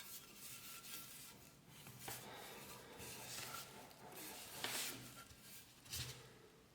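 Faint hand rubbing and scraping in irregular strokes, with a couple of louder strokes near the end.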